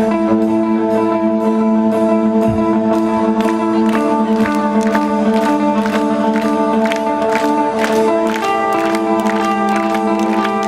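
Rock band playing live: a song's opening, with held chords over a steady beat that picks up pace in the second half.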